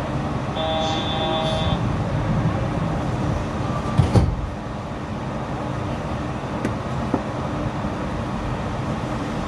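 Yurikamome rubber-tyred automated train running, a steady low rumble heard from inside the car. About half a second in there is a short chime-like tone lasting about a second, and about four seconds in a single loud clunk.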